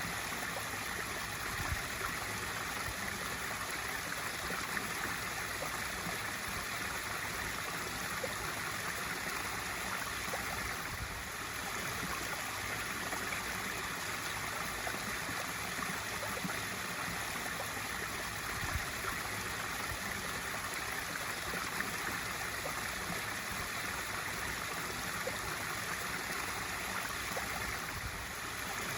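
Pool waterfall feature: water spilling steadily over the ledge into the swimming pool, a constant even splashing with no change in flow.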